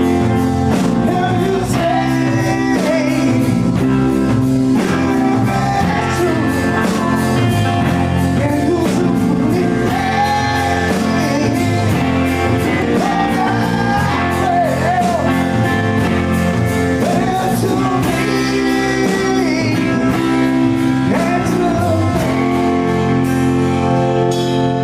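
Blues-rock band playing live: drums, bass and electric guitar, with a wavering lead line over a steady beat.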